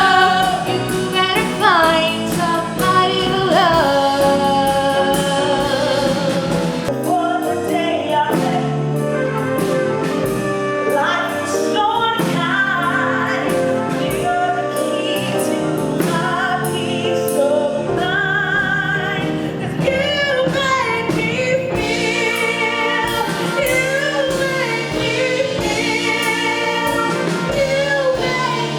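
Female vocalists singing a 1960s-style song with band accompaniment, with group harmonies behind a lead voice.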